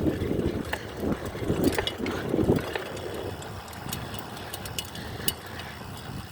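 Bicycle rolling over a dirt trail: rough rumbling knocks and rattling clicks from the tyres and frame, easing off about halfway through.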